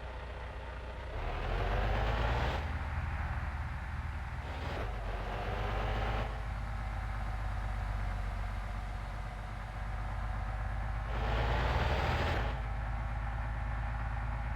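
A truck engine accelerating through the gears: three times its pitch climbs for a second or so, then drops abruptly at a gear change, with a steady running note in between.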